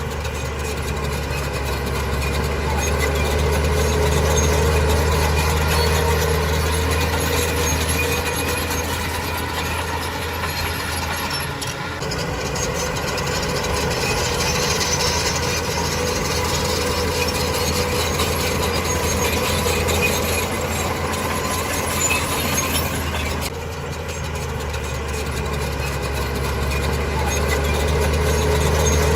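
Heavy diesel engine of earthmoving machinery running steadily with a low hum, its sound changing abruptly twice, about twelve and twenty-three seconds in.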